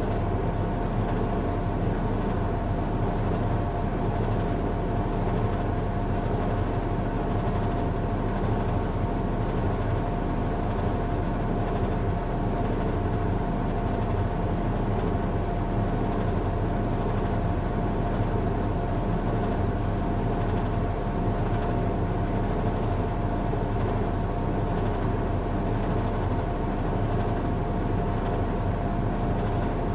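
Washing machine running a strong cycle: a steady mechanical hum with a constant whine over a low rumble.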